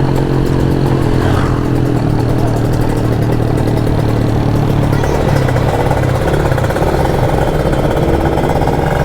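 Kawasaki Ninja RR 150 single-cylinder two-stroke engine running at a steady speed under way, heard over wind rush on the helmet microphone; its note shifts about five seconds in.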